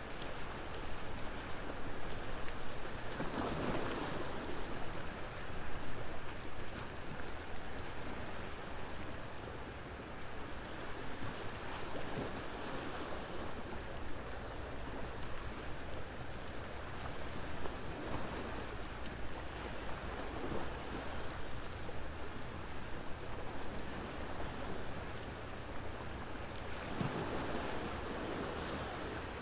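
Ocean waves washing ashore in slow swells, with a wood fire crackling faintly in short, scattered pops.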